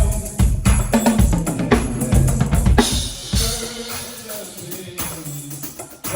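Drum kit playing a rapid run of hits, ending about three seconds in on a cymbal crash that rings out and fades, with low sustained bass notes beneath.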